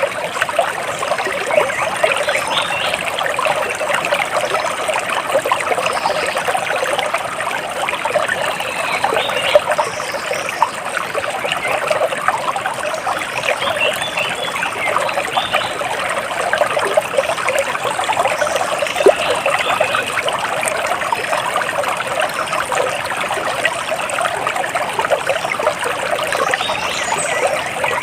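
Water trickling and splashing steadily, as in a small stream or cascade, with a few short bird chirps above it now and then.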